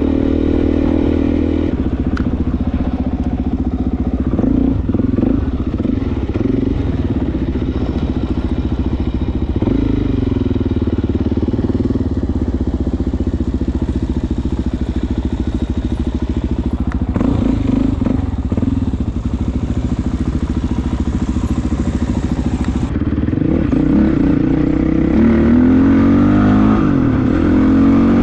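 Suzuki DR-Z400S single-cylinder four-stroke engine running under way on a dirt trail, the revs rising and falling through the throttle and gears several times. It gets louder and revs harder near the end.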